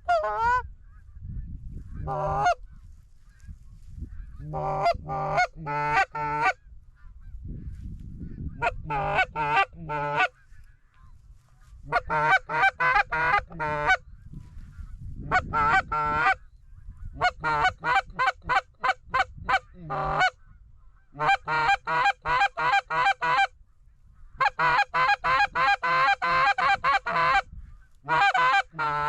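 Geese honking: rapid runs of short, pitched honks in bursts separated by brief pauses, over a low rumble.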